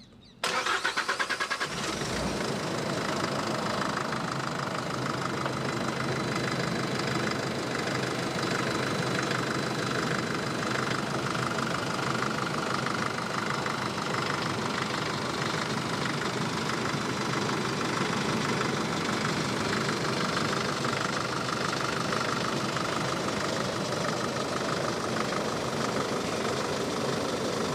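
Force Traveller van's diesel engine starting up, with uneven loud pulses for about a second, then settling into a steady idle.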